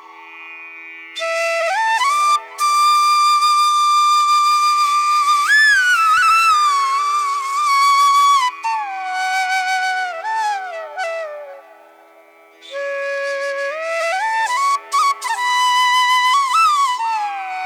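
Background flute music: a slow, single melody line that slides and bends between long held notes, with brief pauses, over a faint steady drone.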